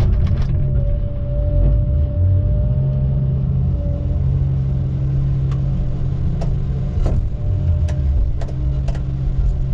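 Heavy logging equipment's diesel engine running steadily: a constant low drone with a thin steady tone above it, and a few sharp clicks in the second half.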